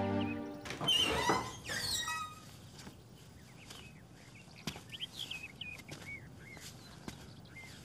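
Background music fades out, then birds chirp, with a loud burst of quick chattering calls about a second in and scattered softer chirps after. A few sharp taps sound through the later part.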